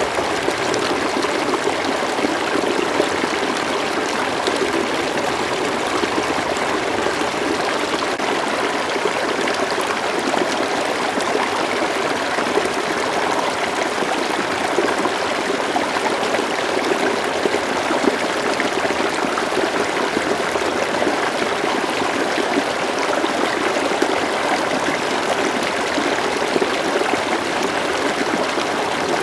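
River water flowing steadily over stones, a continuous even rushing and burbling with no change in level.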